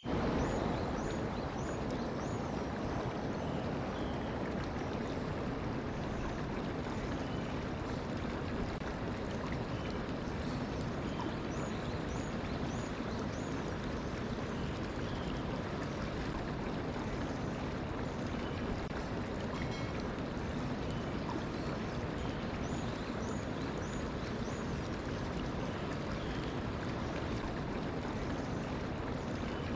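Mountain stream flowing steadily, with small birds chirping over it: short high calls in little runs of three or four, a few times.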